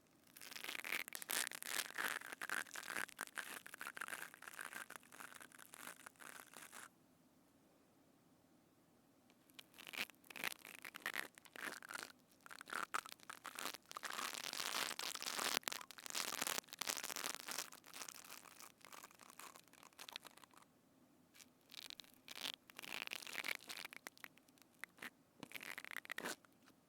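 Close-miked ASMR scratching and crackling right at a binaural microphone, in irregular bursts full of small sharp clicks, with two pauses of near silence: one about a third of the way in and a short one near 21 seconds.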